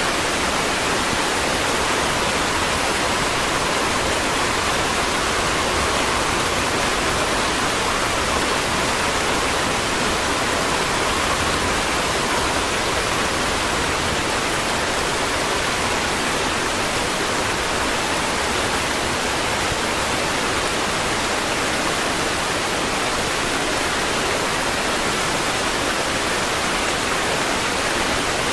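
Steady rain: a dense, even hiss with no separate drops standing out.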